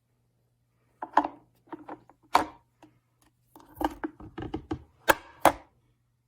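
A series of irregular knocks and clicks, like objects being handled and set down, the sharpest about a second in, near two and a half seconds, and twice near the end, with a quicker cluster in the middle. A faint steady low hum runs underneath.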